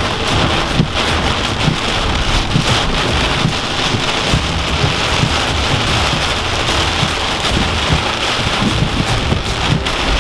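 Heavy hurricane rain pelting a car in a steady, loud downpour, with frequent small low thumps through it.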